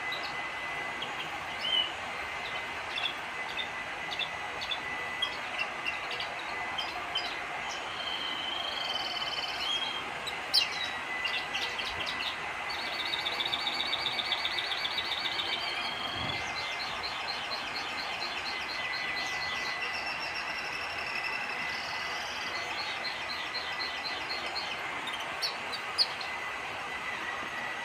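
A small songbird singing a long, varied song of short chirps and fast, rattling trills, with a steady faint high tone behind it.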